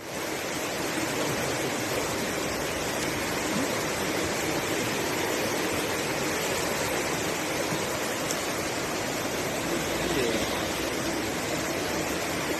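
Swollen floodwater rushing steadily, an even, unbroken noise of fast-moving water.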